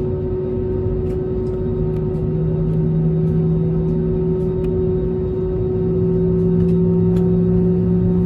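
Airbus A320neo jet engines heard from inside the cabin while taxiing, with the second engine just started and spooling up: a steady hum and rumble, with a low tone that steps up in pitch about two seconds in and again near the end.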